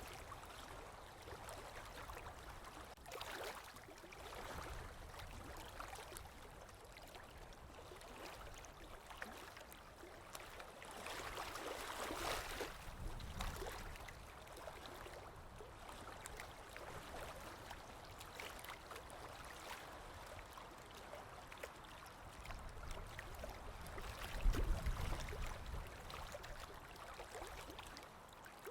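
Ocean waves washing in a steady surf, swelling and easing in slow surges, the biggest one near the end with a deep rumble.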